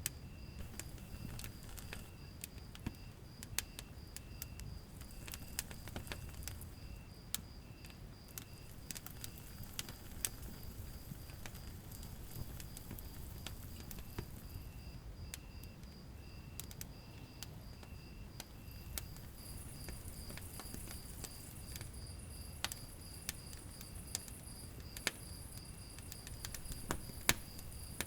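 Wood fire burning in a fireplace: irregular crackles and sharp pops over the low rumble of the flames. A steady high chirping repeats evenly throughout.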